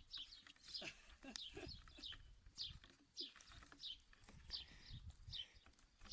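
A small bird giving short, high, falling chirps over and over, roughly two a second, faint. A few lower falling calls come about a second in.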